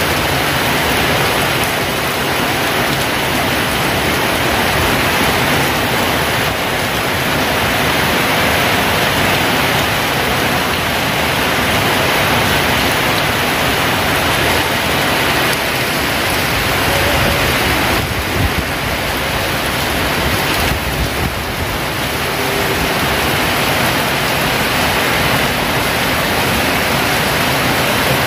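Heavy rain pouring down steadily in a downpour, a loud, even hiss of water.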